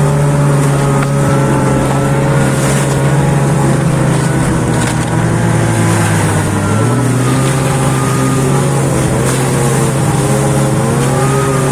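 Taiga snowmobile engines with reworked mufflers running under way. The engine note wavers in pitch and shifts about two-thirds of the way through.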